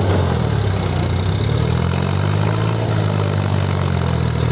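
Tractor diesel engine running steadily at a fairly constant speed, loud and close.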